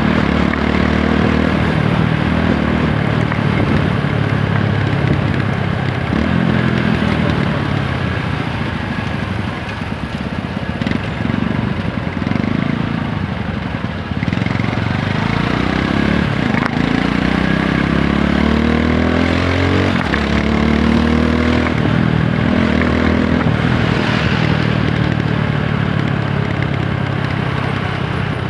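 TVS Apache 160 4V motorcycle's single-cylinder engine under way, its pitch climbing and then dropping several times as it accelerates and shifts gears, with a softer stretch near the middle as it eases off. A steady rush of noise runs beneath it.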